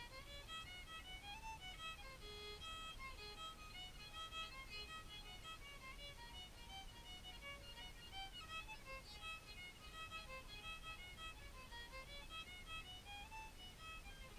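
A solo fiddle playing a tune, a quick melody of short notes moving up and down, heard faintly.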